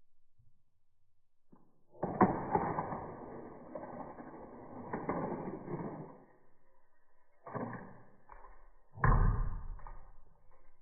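Hot Wheels die-cast toy cars being run on the plastic Stunt & Go playset: a sharp snap about two seconds in, then a few seconds of clattering and rattling along the plastic track. Two more sharp clatters follow, the last one the loudest.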